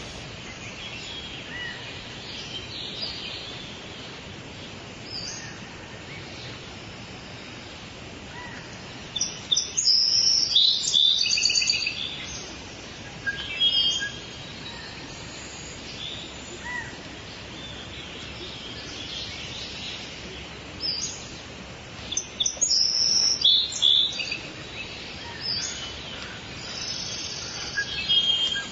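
Small songbirds chirping and calling in short bursts, busiest about ten seconds in and again around twenty-three seconds, over a steady background hiss.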